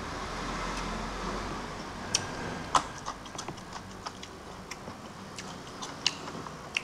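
Close-up mouth sounds of a person chewing a mouthful of rice and beans eaten by hand: irregular wet smacks and clicks of lips and tongue, a dozen or more scattered through.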